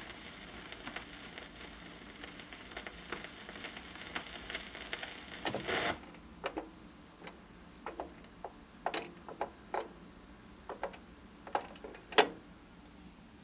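The tail of a doo-wop song's fade-out played from a 45 rpm vinyl single, dying away about six seconds in. After that only the record's surface noise remains, with scattered clicks and pops.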